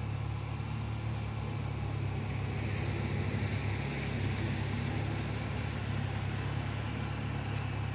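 Car engine running with a steady low hum while the car moves slowly.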